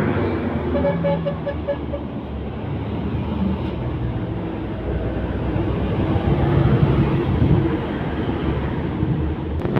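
Road traffic with a heavy truck passing: a low engine rumble swells to its loudest about six to seven seconds in. A short run of quick even beeps comes about a second in.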